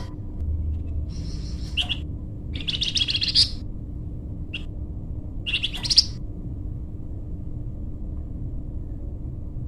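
A flamboyan songbird sings short, high chirping phrases, some buzzy and some clear, with pauses between them. Its last phrase comes about six seconds in. A faint steady hum sits underneath.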